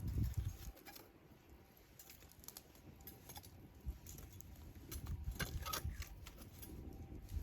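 Wood campfire crackling: scattered pops and snaps over a low rumble that swells at the start and again from about five seconds in.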